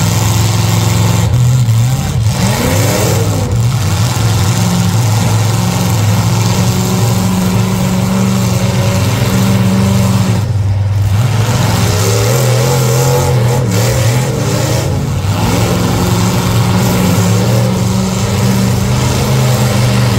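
Demolition derby cars' engines running loud and steady, with revving that makes the pitch waver in places.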